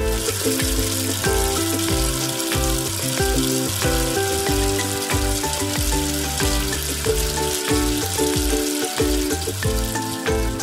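Steady sizzling of food frying in a pan, starting and stopping abruptly, over background music with a melody and bass notes.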